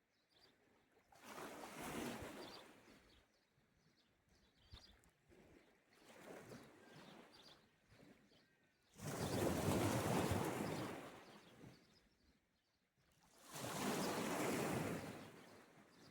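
Sea waves washing onto the shore, in four slow swells a few seconds apart. The loudest comes about nine seconds in.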